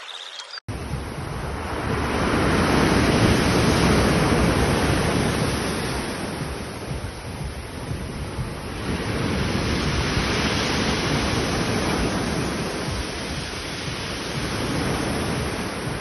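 Ocean surf: a dense rush of breaking waves that swells and eases slowly over several seconds. It starts abruptly about half a second in.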